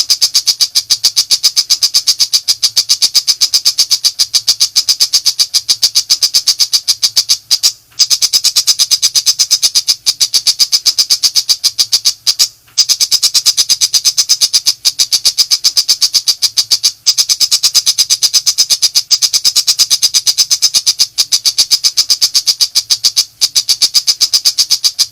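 Tiger shrike (pentet macan) giving its rapid, harsh rattling chatter: short high notes fired off several a second in long runs, broken by a few brief pauses.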